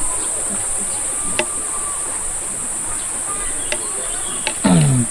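A steady, high-pitched insect chorus. A few faint clicks, and a short voice sound that falls in pitch near the end.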